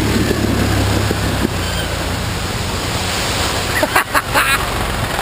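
Mud-bogging vehicle's engine running under heavy wind noise on the microphone, its low hum fading about a second and a half in.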